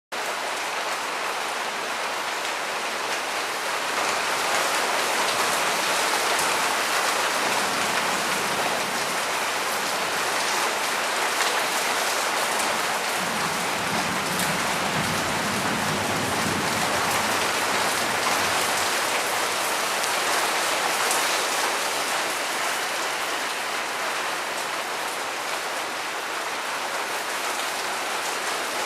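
Heavy, steady rain in a thunderstorm, with a low rumble about halfway through.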